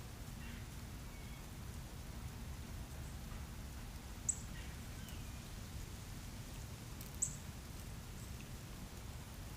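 Small birds chirping over a steady low outdoor rumble. The chirps are faint and scattered, and two short, very high-pitched chirps, about four and seven seconds in, stand out as the loudest sounds.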